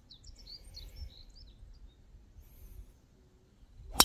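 Small birds chirping: many short, high chirps in the first second and a half, over a faint low outdoor background. A single sharp click near the end is the loudest sound.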